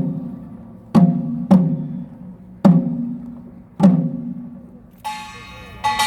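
Samulnori percussion starting up: five slow, separate strikes, each with a low ringing tone that dies away. About five seconds in, a bright metallic clanging with quicker strokes, like a small brass gong, joins.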